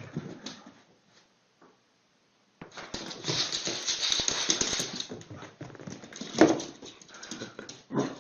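A pet animal's sounds: a few short noises, a brief pause, then a couple of seconds of scuffling noise and a louder short sound near the end.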